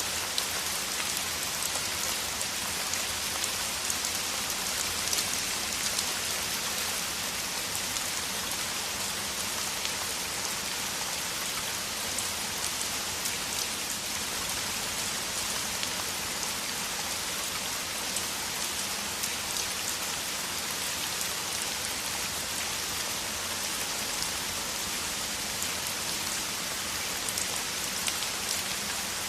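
Downpour of heavy rain: a steady, even hiss of rain with countless small drop impacts.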